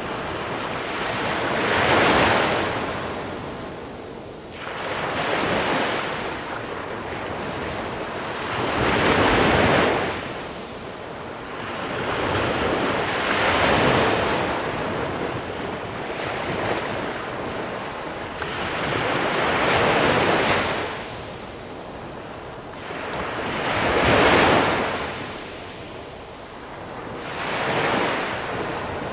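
Small sea waves breaking and washing up a shore of small pebbles, swelling and fading in a slow rhythm, about one wave every four seconds.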